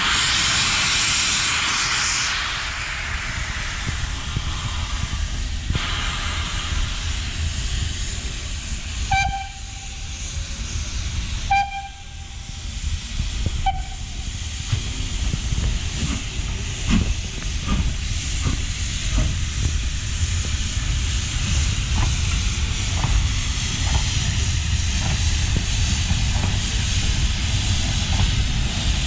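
Steam locomotive at a station: a loud hiss of escaping steam for the first two seconds or so, then three short whistle toots about two seconds apart, followed by a run of short, irregular beats over a steady low rumble.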